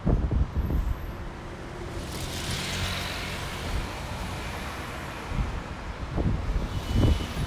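A road vehicle passing by: its engine hum and tyre hiss build to a peak about three seconds in, then fade. Wind buffets the microphone with low thumps at the start and again near the end.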